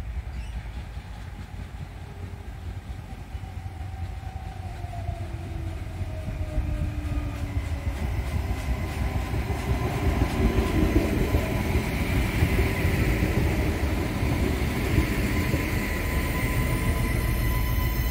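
Adelaide Metro 3000-class diesel railcar approaching and pulling in alongside the platform, growing steadily louder with a deep rumble and a whine that slides down in pitch as it slows. Near the end, steady high-pitched tones join in as it comes to a stand.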